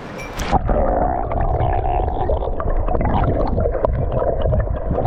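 Muffled, rumbling and gurgling stream water, with the high end cut off abruptly about half a second in, as when the microphone goes under the surface of the stream.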